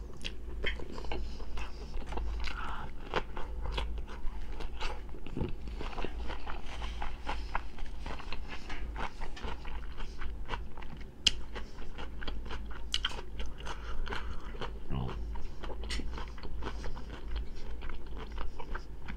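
A person chewing a mouthful of food with the mouth closed, making many small clicks at irregular intervals.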